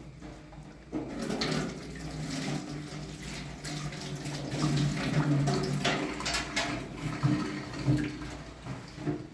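Water running and splashing, with a few small knocks.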